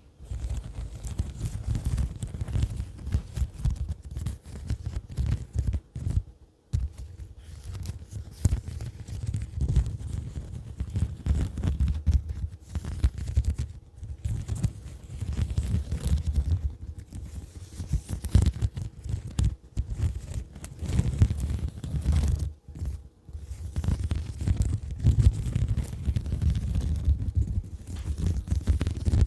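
ASMR tapping close to the microphone: fast, dense taps with a dull, bassy sound, broken by a few brief pauses.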